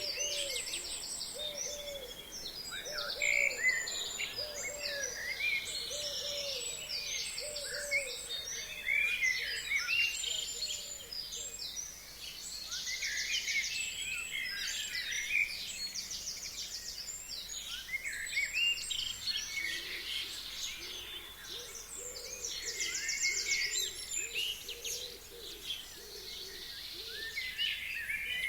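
Forest songbirds singing in a dense chorus of overlapping trills, chirps and whistles. Under it, a series of low hooting notes repeats at an even pace, about two a second, in two spells: from the start for about ten seconds and again near the end.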